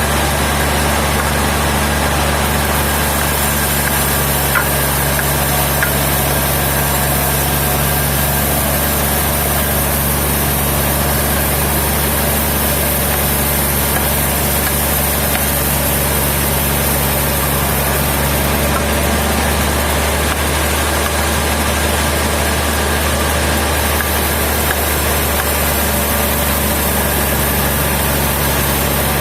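Sawmill machinery running steadily, an engine hum under a wide even noise; one low tone in the hum drops out about two-thirds of the way through.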